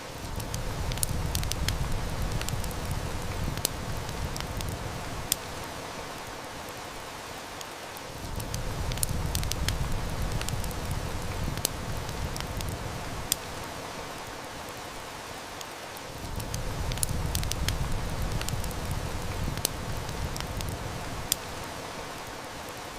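Steady heavy rain with the sharp snaps and pops of a burning wood fire, a few every couple of seconds, over a low rumble that swells and fades about every eight seconds. The same stretch of sound repeats as a loop.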